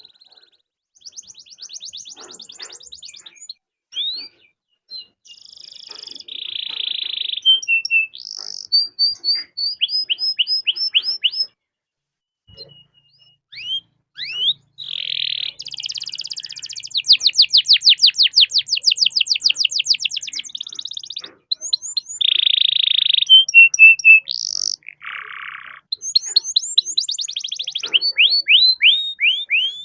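Domestic canary singing a long, varied song: fast trills and rattling rolls, buzzy notes and rising sweeps, with a brief pause about twelve seconds in.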